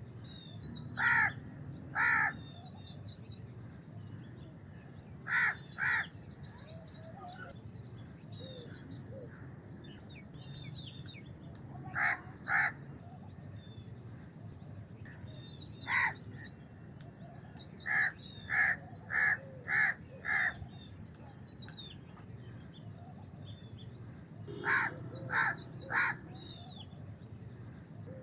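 House crow cawing: short harsh calls in clusters of two to five, seven clusters in all, with small birds chirping continuously in the background over a steady low rumble.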